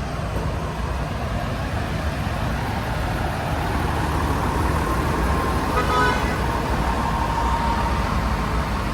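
Truck running with a steady rumble and hiss. A brief pitched sound comes about six seconds in.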